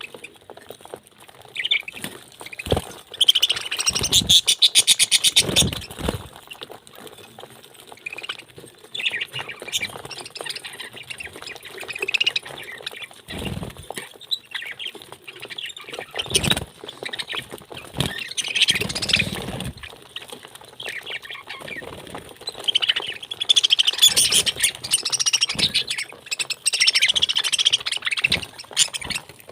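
Pet parrot squawking and chattering in repeated buzzy calls, loudest in two spells, one a few seconds in and one near the end, with several dull knocks in between.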